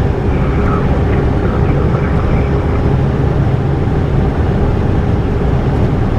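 Steady engine and air noise inside a Cessna Citation M2 business jet under way: an even low rush with a faint steady hum over it.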